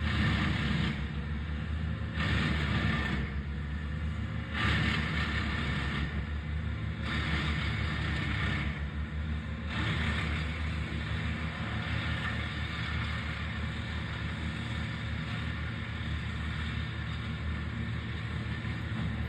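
An engine running steadily with a low rumble. For the first ten seconds or so a harsher, higher noise comes and goes about once a second, then it settles into a steady sound.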